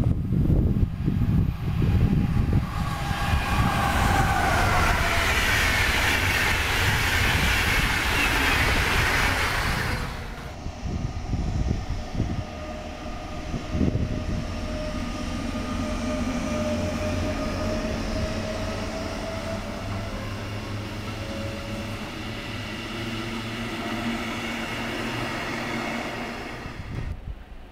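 A train passing close by: loud rumbling and wheel clatter with a rising hiss. About ten seconds in it drops suddenly to a quieter rolling sound with steady whining tones.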